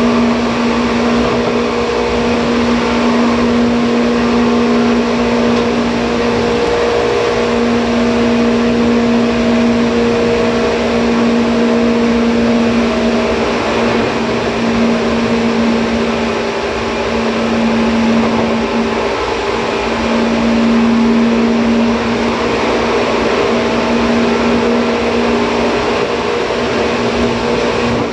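Seibu 2000 series electric train running at a steady speed, heard from inside the car: a steady hum with a few held tones over the rumble of wheels on rail.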